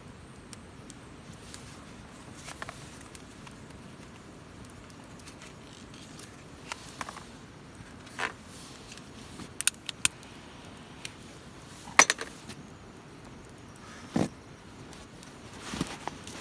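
Irregular sharp clicks and snaps over a low steady hiss, the loudest about three quarters of the way through.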